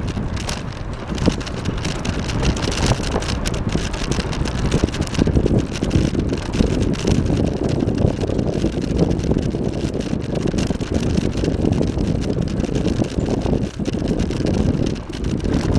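Wind buffeting the microphone on a moving bicycle, a steady rumbling rush of air noise.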